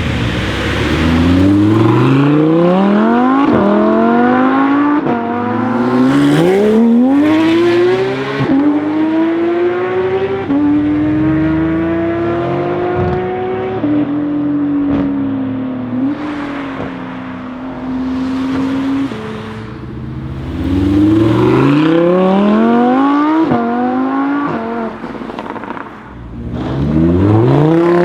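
Lamborghini Huracán's V10 accelerating hard: the engine note climbs and drops back through several quick upshifts, then holds a steady high note that slowly falls away. A second full-throttle run through the gears follows, and the note starts climbing again near the end.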